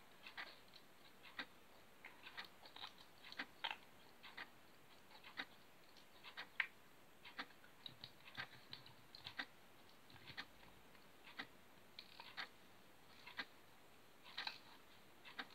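Faint, irregular small wet clicks and pops of jiggly slime being poked, squeezed and pushed back into its container, one every second or so.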